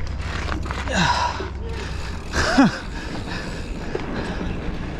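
Mountain biker breathing hard from pedalling effort, with two loud gasping exhales about a second and two and a half seconds in, over the low rumble of the bike on the trail.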